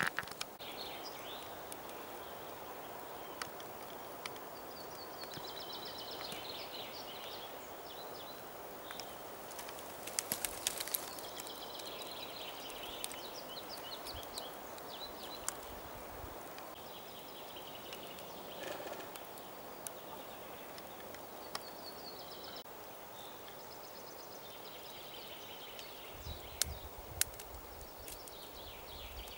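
A small songbird sings short trilling phrases every few seconds over a steady outdoor hiss. Sharp cracks of twigs and branches sound as someone forces a way through dense undergrowth, with a few thumps near the end.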